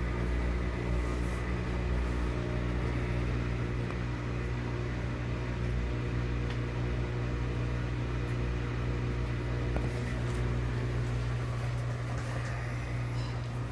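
Maytag washing machine running with a steady motor hum.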